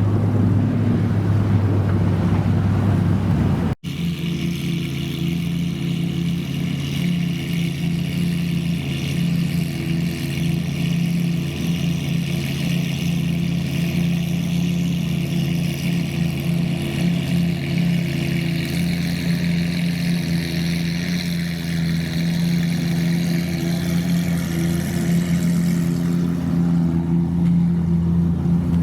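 Supercar engine running at steady revs, its note holding unchanged; a hard cut about four seconds in switches to a different, higher steady engine note.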